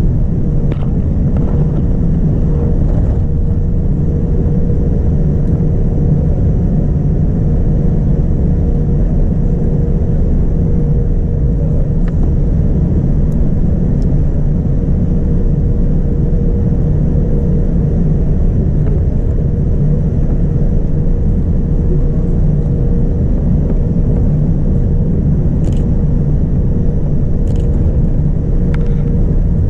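Steady cabin noise of a Boeing 787-9: an even, loud low rumble of engines and airflow with a faint steady hum, and a few faint clicks near the start and near the end.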